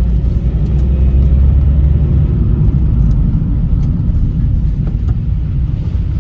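Vauxhall Meriva B automatic on the move, heard from inside the cabin: a steady low rumble of engine and tyre noise.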